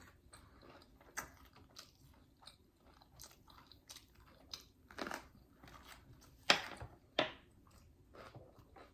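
Close-miked chewing and mouth sounds of a person eating: irregular soft smacks and bites, with three louder wet smacks past the middle.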